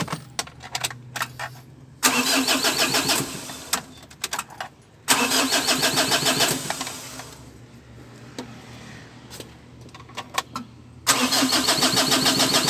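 Starter motor cranking the Mitsubishi L300's 4D56 diesel engine in three separate tries, each a second and a half to two seconds long, with a lower steady hum in the gaps. The engine is hard-starting.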